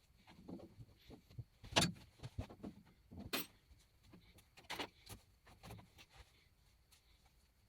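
A series of irregular knocks and clicks, the sharpest about two seconds in and again near three and a half and five seconds.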